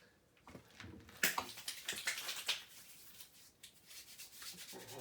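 Rustling and rubbing as things are handled and moved about, with several sharp clicks and knocks, the loudest a little over a second in.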